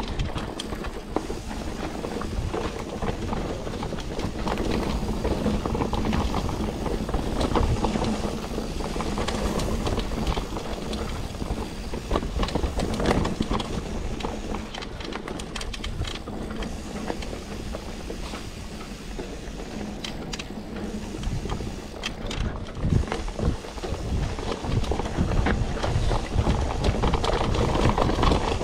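Mountain bike riding down a dirt trail: a steady noise of tyres on rough ground, with rapid rattling clicks from the bike over bumps.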